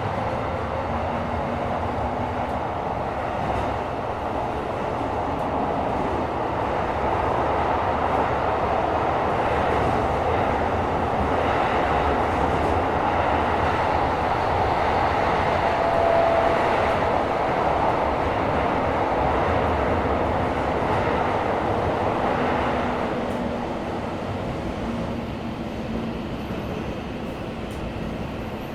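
Tokyo Metro 17000 series subway train running between stations, heard from inside the car: a steady rumble of wheels on rail that grows louder through the middle and eases off toward the end.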